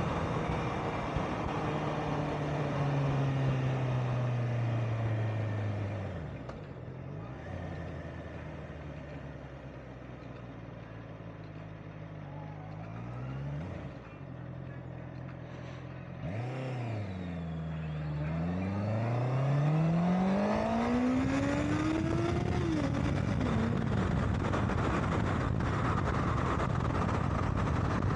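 Honda CBR650R inline-four engine slowing down with falling revs, idling low for several seconds, then pulling away: two short revs, then a long rising sweep as it accelerates. After that, steady wind rush at speed.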